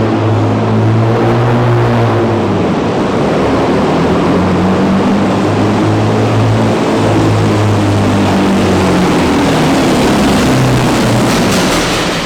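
Big diesel truck engine running hard under load on a pull, a loud steady drone whose pitch wavers slowly. There are a few sharp crackles just before the end.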